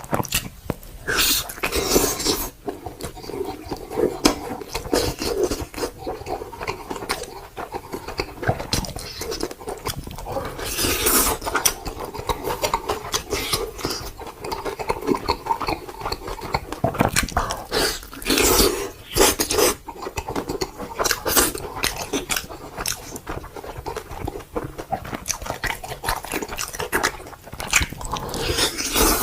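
Close-miked chewing of meat: irregular wet smacking, clicking and crunching bites with no steady rhythm.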